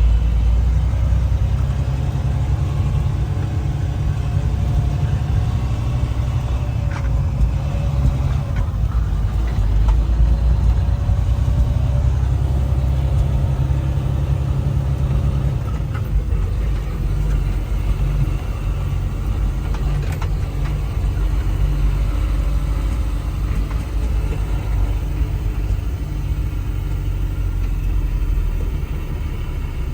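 Semi-truck's diesel engine running, a steady low rumble heard from inside the cab.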